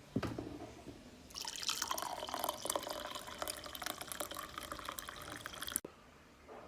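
A knock, then water running in a stream for about four seconds, splashing into a vessel, and cut off suddenly.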